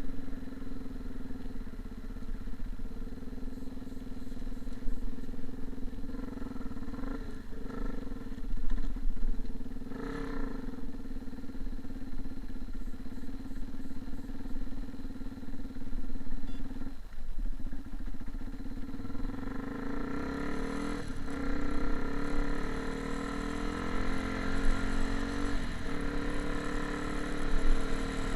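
A motor engine running steadily, its pitch shifting upward about two-thirds of the way through.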